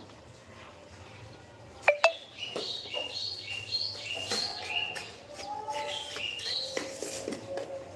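Two sharp clicks about two seconds in, then a small bird chirping repeatedly in short high notes that alternate between two pitches.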